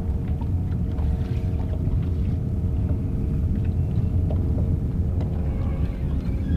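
Steady low rumble aboard a small boat, with a constant droning hum and a few faint clicks.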